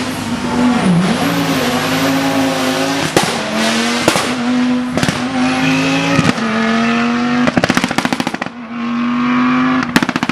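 Rally car engine at high revs, holding a steady pitch with brief breaks at each gear change, then rapid exhaust popping and crackling on lift-off about seven and a half seconds in and again near the end.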